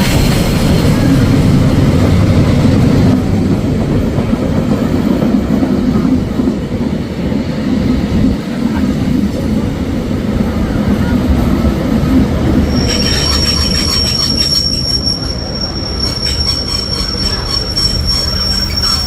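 NZR Ww class steam tank locomotive and its train rolling into a station, a loud low rumble of wheels on track. About two-thirds of the way through, a steady high-pitched squeal starts as the train slows and holds.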